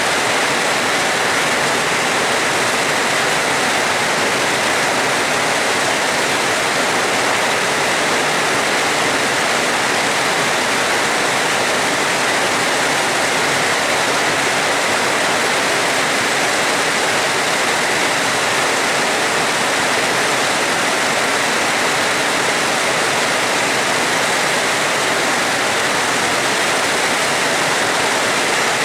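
Steady heavy rain: a dense, even hiss that holds at one level throughout.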